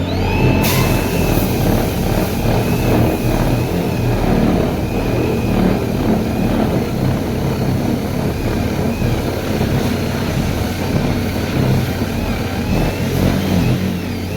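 Woodworking machine's electric motor running steadily under load while it cuts wood, a rough grinding rasp over the motor's constant hum.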